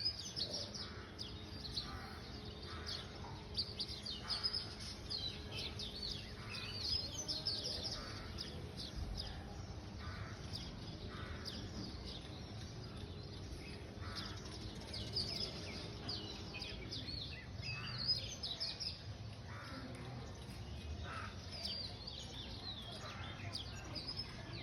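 Many small birds chirping and calling, dense short high chirps over a steady low background rumble.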